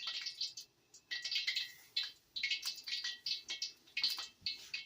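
Hot cooking oil crackling and hissing as it heats for frying, with many quick irregular pops.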